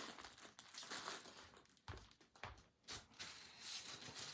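Faint crinkling and rustling as yarn skeins and their packaging are handled, coming and going in short irregular spells with brief pauses.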